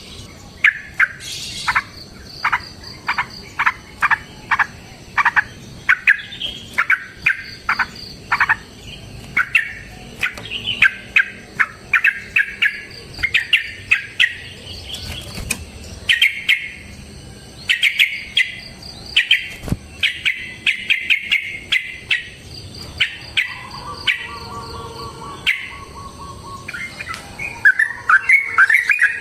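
Yellow-vented bulbul (trucukan) singing a long, rapid run of short bubbly chirps, repeated over and over as a lure song. A faint steady buzz is heard briefly about three-quarters of the way through.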